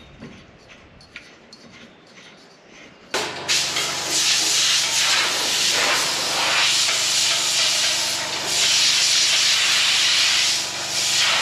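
Faint clicks, then about three seconds in a loud, steady hiss starts suddenly over the steady hum of a running engine.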